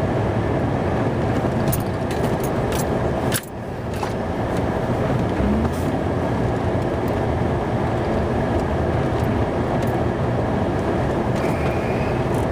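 Snow-plow pickup truck running, heard from inside the cab as it back-drags snow off a driveway, with a steady rumble and scattered knocks. The noise drops briefly about three and a half seconds in.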